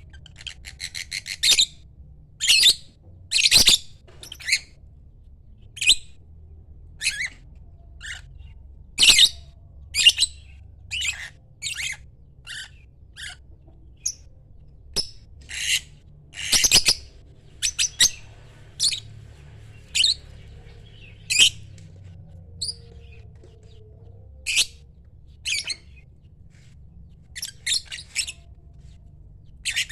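Lovebird giving a run of short, shrill, high-pitched chirps and squawks, spaced irregularly about one or two a second, some much louder than others.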